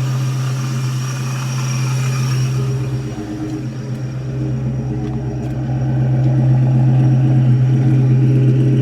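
Supercharged 2003 Ford Mustang GT's 4.6-litre two-valve V8 idling steadily on its first startup after a Vortech V-3 supercharger install, running smoothly ('purring'). It gets a little louder about six seconds in.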